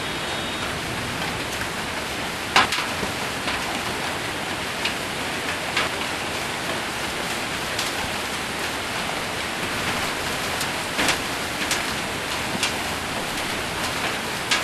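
Hail and rain falling steadily on a metal roof: a dense, even patter with scattered sharp single hits, the loudest about two and a half seconds in and another near eleven seconds.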